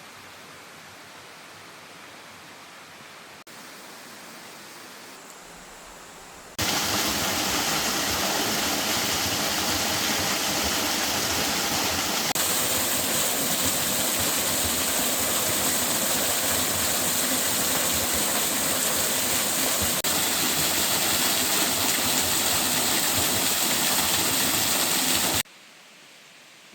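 Waterfall: a loud, steady rush of falling water that cuts in suddenly about six seconds in and stops abruptly near the end, with a much fainter, even water hiss before it.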